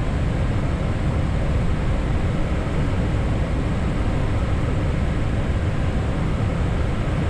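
Steady rush of airflow and engine noise on the flight deck of an Airbus A320neo in climb, an even, unbroken noise heaviest in the low end.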